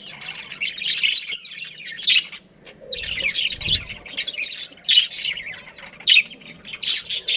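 Budgerigars chirping and chattering in quick clusters of high-pitched notes, with short pauses between clusters. A brief low thud about three and a half seconds in.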